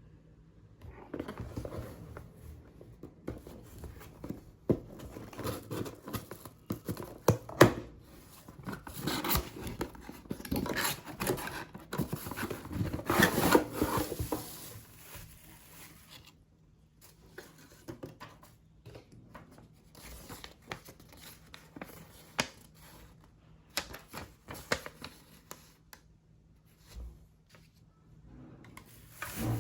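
Packaging being handled and torn open: crinkling and tearing, with sharp clicks and taps. Busy for about the first half, then only scattered light clicks.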